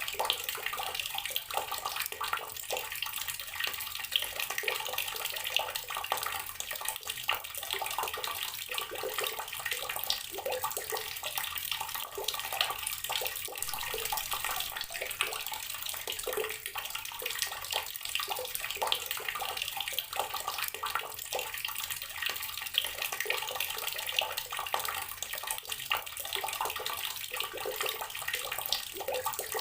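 Outdoor water tap running steadily, its stream splashing and spattering continuously onto the ground or into water below.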